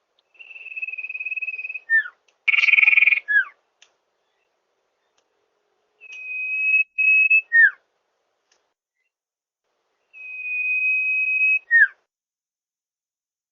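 Common iora (sirtu/cipoh) calling: three long, steady whistles, each about a second and a half, each ending in a quick falling note. A short harsh, buzzy note comes a few seconds in.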